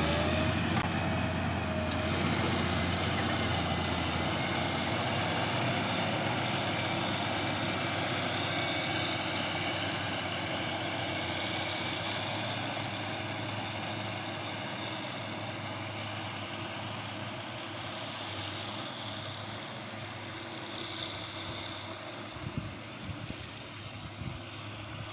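Silage harvesting machinery running steadily under load, heard from inside the cab: an engine drone with the chopper's rushing noise, slowly fading in the last few seconds, with a few low knocks near the end.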